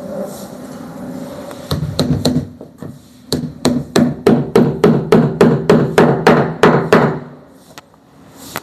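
Hammering on wood: a few separate blows, then a fast even run of about four strikes a second that stops about a second before the end.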